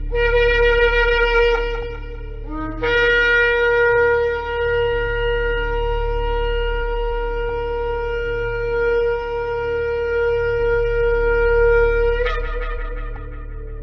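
Shofar (ram's horn) blown in two blasts: one of nearly three seconds, then a long held note of about nine seconds that breaks upward in pitch at the end and fades out.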